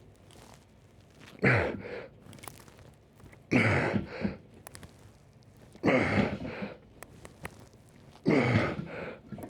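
A man's forceful exhaling breaths, each with a short voiced grunt that drops in pitch, one with each rep of a weightlifting set. There are four of them, about two seconds apart.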